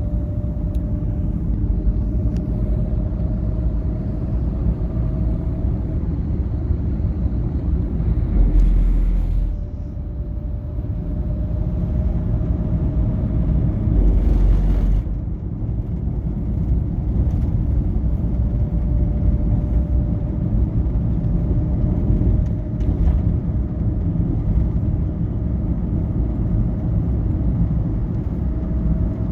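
Steady low rumble of a moving vehicle, heard from inside it, with a faint steady whine above it. Two short, louder rushes of noise come about nine and fifteen seconds in.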